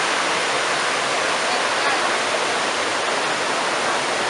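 The Kurdzhips mountain river rushing steadily, a continuous roar of moving water.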